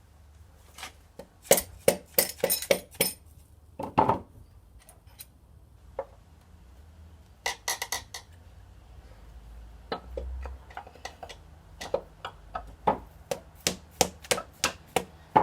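Metal tools clinking and tapping against the connecting rod and piston inside a Chevy V8 block, knocking a stuck piston down out of its bore. The taps come in short clusters, with a quicker string of them from about ten seconds in.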